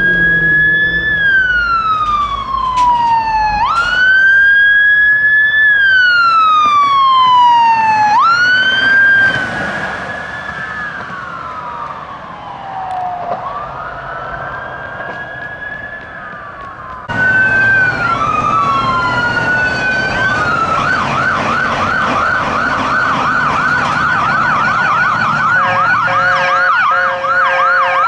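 Emergency-vehicle electronic siren wailing, rising quickly and falling slowly about every four seconds, on a Ford Police Interceptor Utility police car, fading as it moves away. Then an ambulance siren sounds a wail and switches to a fast yelp about two-thirds of the way in, with a steady blaring horn tone joining near the end.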